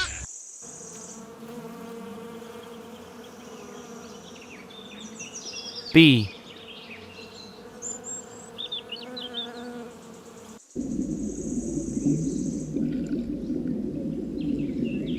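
Bees buzzing: a steady insect hum that turns into the denser, louder droning of many bees about two-thirds of the way through.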